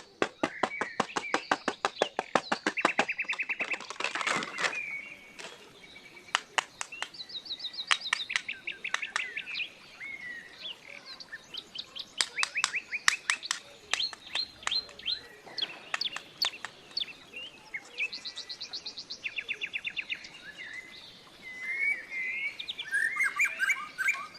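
Birds chirping and calling: rapid rattling series of clicks, fast trills of short high notes, and scattered chirps, one after another.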